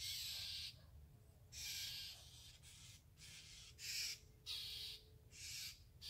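Harsh, raspy scolding calls of a bird mobbing a great horned owl, repeated about six times, each under a second long.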